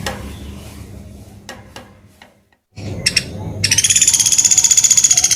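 Woodpecker (pelatuk beras) calling: after a short silent gap, a few high notes, then from about two-thirds of the way in a loud, very fast rattling trill of repeated high notes.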